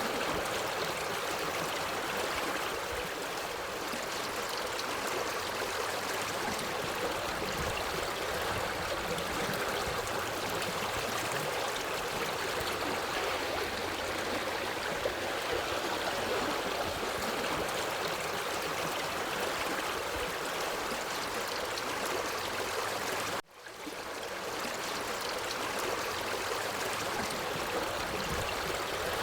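Forest stream flowing steadily over rocks, an even babbling rush of water. About two-thirds of the way through the sound drops out for an instant, then fades back in.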